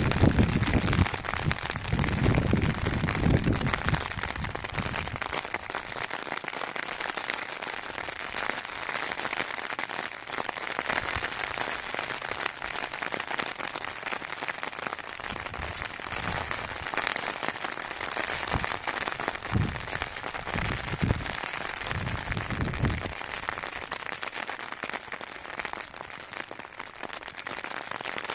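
Steady rainfall hissing, with low rumbling gusts of wind on the microphone in the first few seconds and again past the middle.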